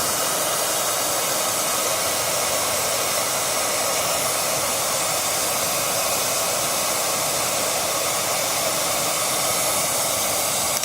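Handheld hair dryer running steadily, blowing hot air into a frozen-up refrigerator ice maker to melt the ice jam.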